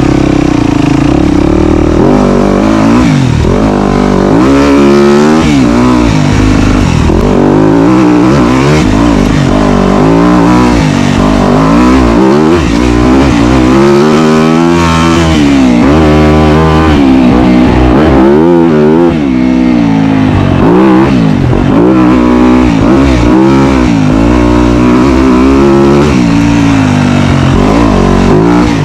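Dirt bike engine revving up and down again and again under constantly changing throttle while riding a trail.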